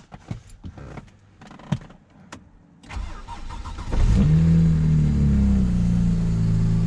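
A few light clicks, then the 2007 BMW 335i's twin-turbo inline-six is cranked by the starter and catches about four seconds in, flaring briefly before settling into a steady idle. Just afterwards the owner says there is wastegate rattle.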